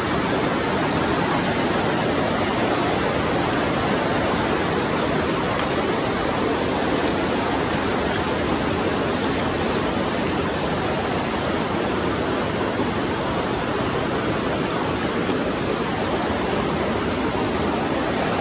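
Steady, loud rush of water from a waterfall close by.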